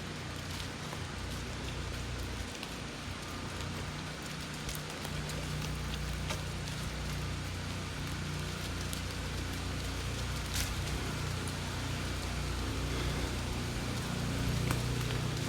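Rain falling steadily, with scattered drops tapping. A low steady hum runs underneath, dropping away briefly a few seconds in.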